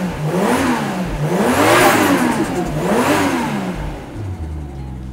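Toyota Chaser JZX100's turbocharged straight-six blipped from idle three times, the pitch rising and falling smoothly each time, then settling back to a steady idle about four seconds in. It is a test run after new NGK racing spark plugs and a cleaned idle speed control valve, meant to cure the engine's failure to rev freely, and it revs without sputtering.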